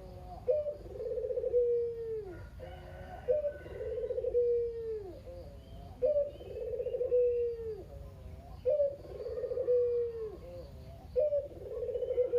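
A male puter dove (Barbary dove) cooing over and over. Each phrase is a short opening note followed by a long trembling coo that drops in pitch at the end, repeated about every two and a half seconds.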